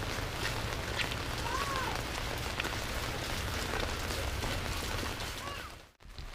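Steady rain falling, with scattered sharp drop taps and a few faint short whistle-like notes; the sound cuts out briefly near the end.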